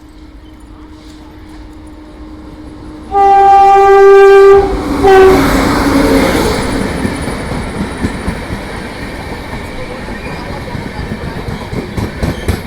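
Indian Railways express train arriving: a low rumble builds, then the locomotive horn sounds about three seconds in, a long blast followed by a short one. The train rolls in with a steady rumble and wheel clatter that slowly dies down.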